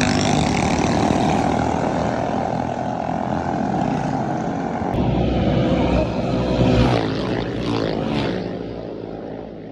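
Minibike engine running steadily at speed. Near the end its pitch swings up and down as it revs, then the sound fades.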